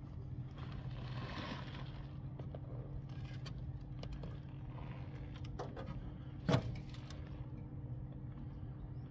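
Light metal clicks and clinks of parts being handled while an industrial air-conditioner is taken apart, over a steady low hum, with a brief hiss about a second in and one sharper knock about six and a half seconds in.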